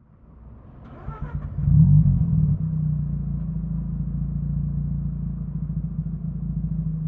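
Mazda RX-8's Renesis 13B two-rotor rotary engine starting through an AutoExe stainless dual muffler. It cranks briefly, catches with a short flare of revs, then settles into a steady idle.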